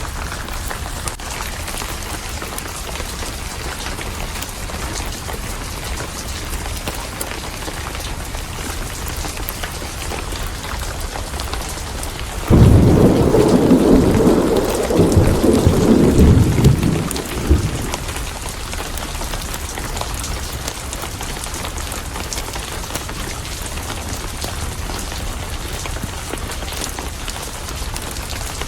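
Steady rain falling, with a sudden loud thunderclap about twelve seconds in that rumbles for about five seconds and then dies away.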